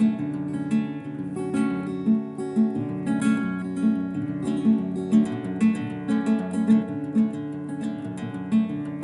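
Solo acoustic guitar playing a piece of music, with a low note pulsing about twice a second under picked melody notes.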